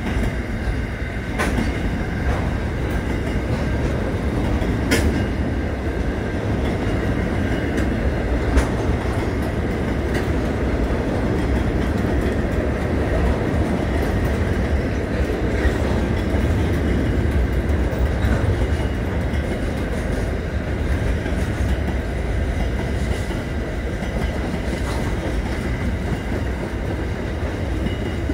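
SCT freight train's container wagons rolling past: a steady rumble of steel wheels on rail, with a few sharp clacks in the first several seconds and a thin high whine running over it.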